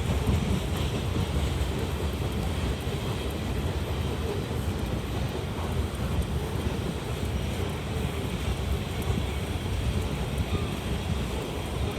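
CSX freight train's cars rolling past, a steady rumble of wheels on rail with no horn or clear pitched engine note.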